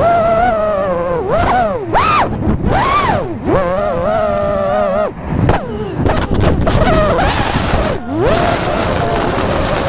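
FPV quadcopter's motors and propellers whining as it flies, the pitch swooping up and down over and over with the throttle.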